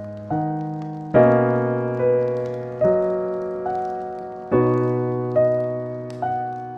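Slow, gentle piano music: single notes and soft chords struck about once every second and left to ring and fade.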